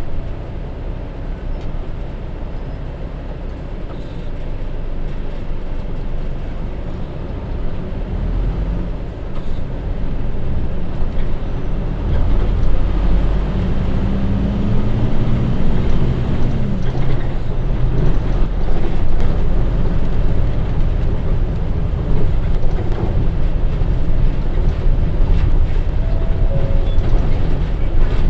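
The Hino J07E diesel engine of a city bus with a DD5M five-speed manual gearbox, heard from inside while the bus is on the move. It gets louder about a third of the way in as the bus pulls harder. Its note climbs for a couple of seconds, then drops sharply past halfway, the way it does at a gear change.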